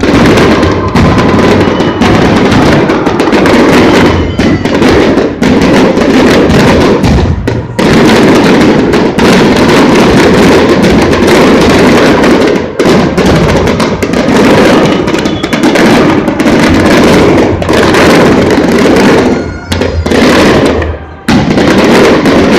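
Festival fireworks display: a dense, continuous barrage of overlapping bursts, very loud and close to overloading the recording, easing briefly a few times between volleys.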